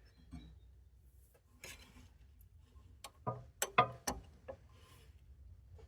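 A socket and bar on a seized Kubota D905 diesel engine's crankshaft pulley bolt: scraping, then a cluster of sharp metal knocks and clicks a little past halfway as the socket slips off the bolt instead of turning the engine.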